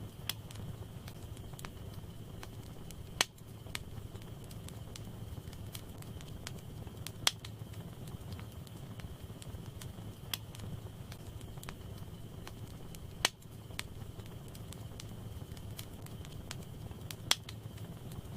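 Wood fire in a fireplace crackling: a steady low rush of flames with sharp pops every few seconds, four of them much louder than the rest.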